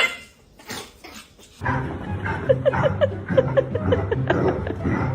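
A dog barks briefly in the first second. Then background music with a steady bass line comes in, with a quick run of short high squeaks over it.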